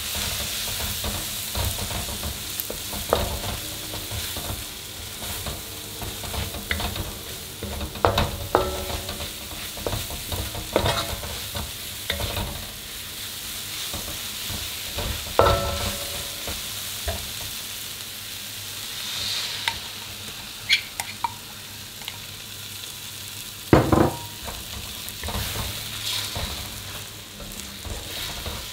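Onions and curry powder sizzling in an aluminium wok as a wooden spoon stirs and scrapes them, with scattered knocks of the spoon against the wok. The loudest knock comes about 24 seconds in.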